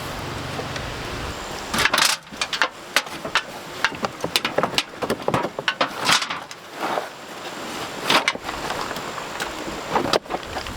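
A run of irregular sharp knocks and cracks, more than a dozen over about eight seconds, over a steady background rush; a low hum stops about two seconds in.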